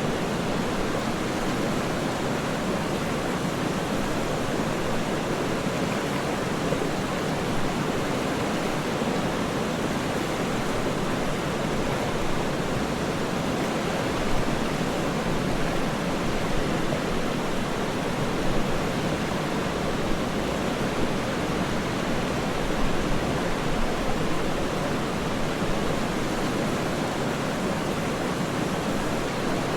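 Waterfall rushing steadily: an even wash of water noise with small swells in loudness.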